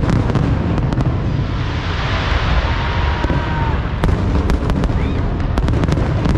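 Large fireworks display: a steady run of deep booms from bursting aerial shells, with a hissing spell about two seconds in and many sharp crackles in the second half.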